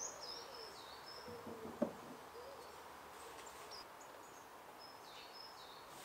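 Birds chirping and calling, high thin notes with a few lower calls in the first couple of seconds. A single sharp click or knock sounds a little under two seconds in.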